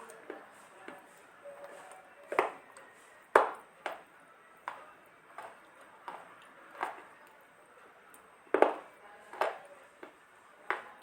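Dry multani mitti (Fuller's earth clay) being crunched: about a dozen short, sharp crunches and snaps at uneven intervals, some in quick pairs.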